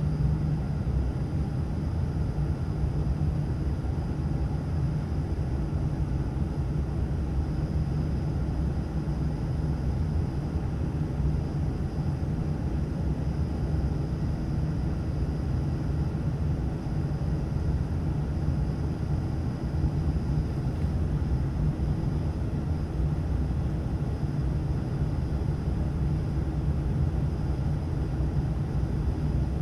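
Steady cabin drone of a twin-turboprop ATR airliner in flight: a deep, even propeller and engine hum with rushing air noise, on approach for landing.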